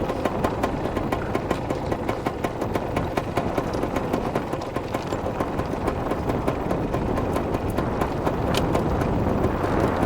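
Dirt bike riding on a rough trail: the engine runs under the noise of wind and bumps on the microphone, with many sharp clicks and rattles, growing slightly louder toward the end.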